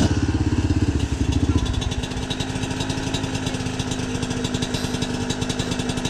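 Dirt bike engine running hard for about the first two seconds, then easing off to a steadier, quieter run.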